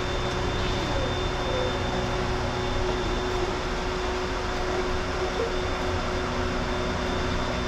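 Steady hum of an electric train's air-conditioning and onboard electrical equipment while the train stands before departure, with a constant high whine and a lower steady tone over it.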